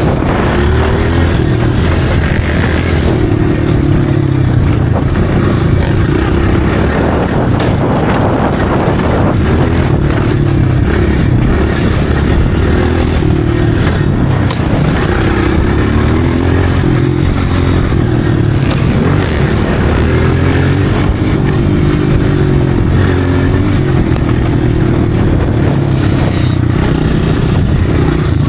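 Motocross dirt bike engine running and revving, its pitch rising and falling again and again, with scattered knocks and clatter.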